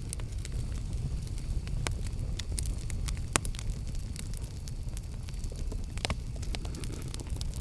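Campfire crackling: frequent irregular sharp pops and snaps over a low steady rumble, with one louder pop about three seconds in.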